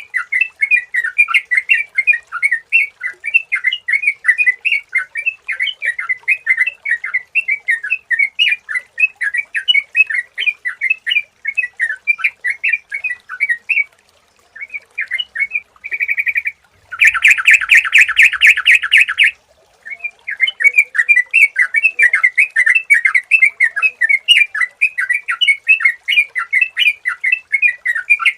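Yellow-vented bulbul (trucukan) singing a fast, unbroken run of chirping notes. About halfway through, a short pause is followed by a loud, buzzy rattle of about two seconds, and then the chirping resumes.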